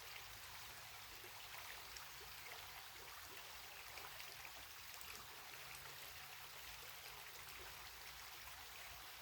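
Faint, steady trickle and babble of a small creek.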